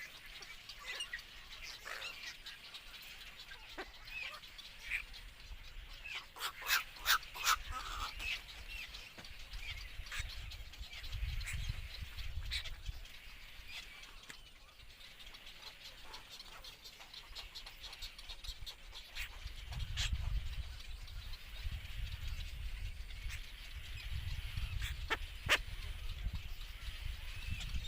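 Birds giving short, sharp calls, with a quick run of them about seven seconds in and another sharp call near the end. A low rumble comes and goes underneath.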